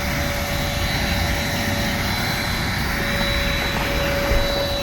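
Car wash machine running steadily: a constant high whine over a loud rushing hiss.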